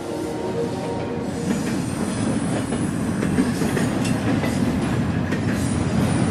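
A steady rumbling, clattering noise with many small irregular clicks, growing a little louder near the end.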